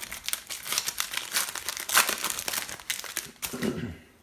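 Foil trading-card pack wrappers being torn open and crumpled by hand: a dense, crackling crinkle, loudest about two seconds in.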